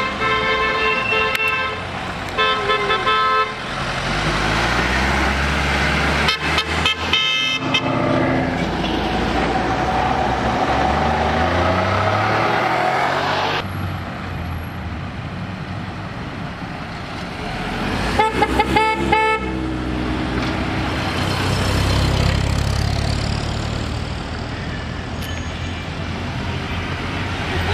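Car horns honking in several short bursts, with a quick run of rapid toots about six seconds in and another about eighteen seconds in. Car engines are running underneath.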